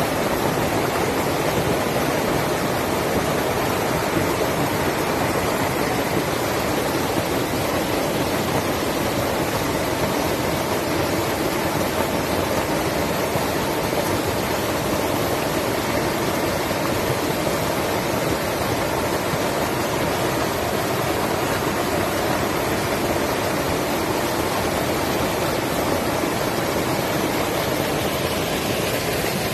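Rushing creek water: a steady, full rush of flowing water over rocks, unbroken throughout.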